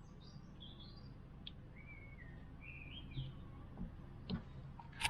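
Faint songbird chirps and warbling calls over a steady low hum, with a few light clicks and knocks near the end.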